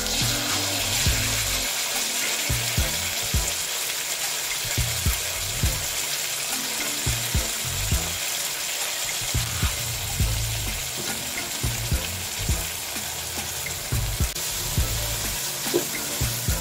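Vegetables and tomato sauce sizzling in a hot wok, a steady hiss with scattered low knocks.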